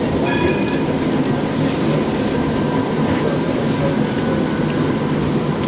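Steady rumble of a tram running along its rails, heard from inside the car, with a few faint short squeals about half a second in.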